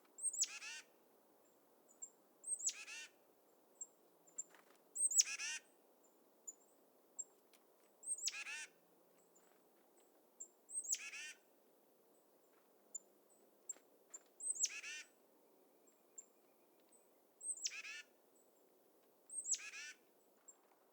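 A small songbird repeatedly giving a scolding call: a thin high note, then a harsh run of notes falling in pitch, about every three seconds, eight times, with faint high pips between.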